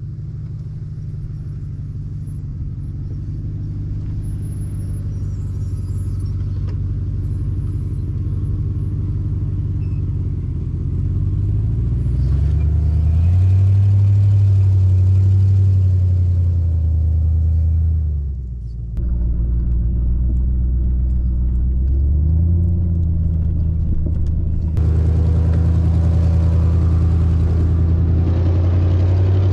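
Jeep WJ Grand Cherokee engine and exhaust while it is driven slowly, with an unrepaired exhaust leak. The revs climb around the middle, drop sharply for a moment about two-thirds through, then climb again.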